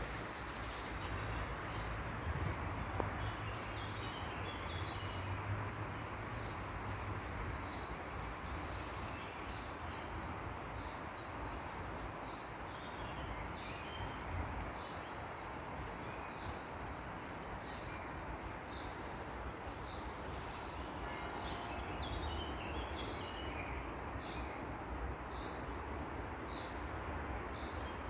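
Birds chirping in the park over a steady background hiss and low rumble. Near the end, one bird repeats a single short high call about once a second.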